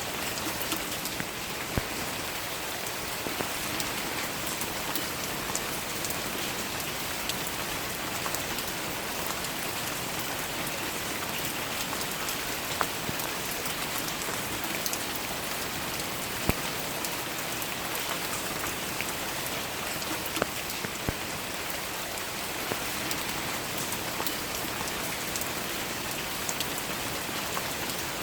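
Steady rain falling on flower petals, an even hiss with scattered louder single drops landing close by.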